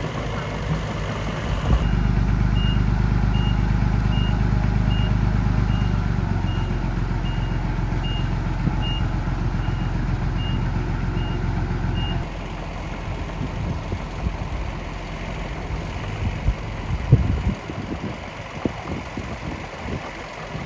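Miniature dump truck's engine sound running steadily while a reversing beeper sounds about one and a half times a second; both cut off about twelve seconds in, leaving a lower hum with scattered clicks and rattles.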